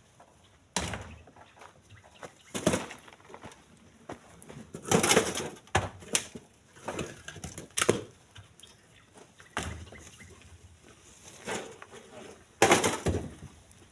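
Split stones knocking and clattering as they are handled and loaded by hand: about ten irregular sharp knocks, a couple of them in quick clusters near the middle and near the end.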